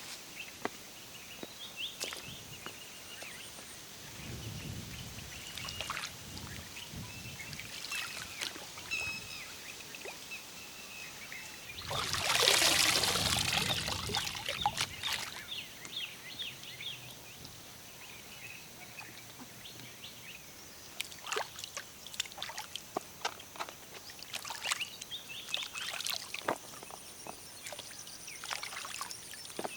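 Outdoor food-preparation sounds: scattered taps and clicks of utensils and ingredients being handled, against birds chirping. About halfway through there is a louder rushing, pouring-like noise lasting about three seconds.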